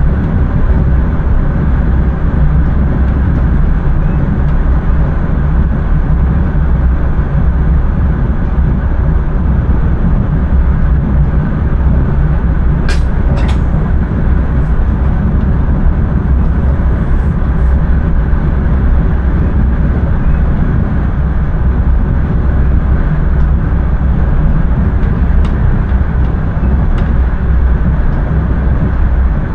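Intercity train running at speed, heard from the driver's cab: a steady, heavy rumble of wheels on the rails, with a couple of sharp clicks about halfway through.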